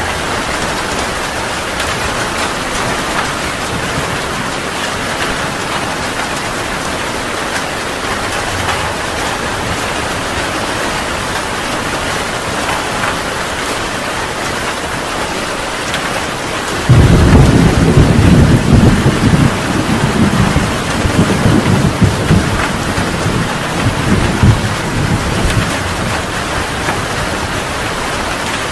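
Heavy rain falling steadily, with a thunderclap breaking suddenly about two-thirds of the way in and rumbling on for several seconds before fading back under the rain.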